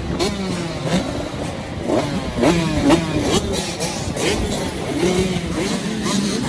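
Several motocross bikes racing on the track, their engines revving hard, the pitch climbing and dropping again and again through gear changes and throttle bursts, with several bikes overlapping.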